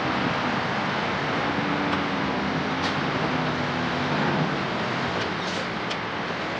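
Heavy diesel earthmoving machinery running steadily under load, its engine drone drifting slightly in pitch over a dense mechanical clatter, with a few short sharp metallic clinks.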